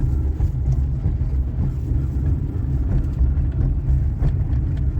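Road and running noise inside the cabin of a 1998 Suzuki Baleno on the move: a steady low rumble with a few faint knocks. It is a test drive listening for a rattling, grating noise from the upper dashboard, which is still there.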